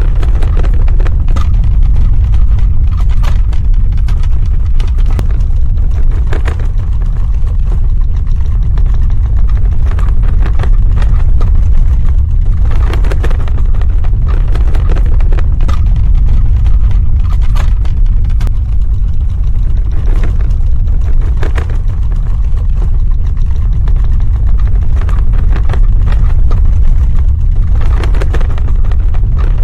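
Earthquake sound effect: a loud, continuous deep rumble with irregular cracks and rattles scattered through it.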